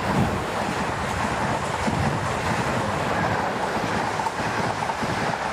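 Train passing close by: a steady, unbroken rushing noise.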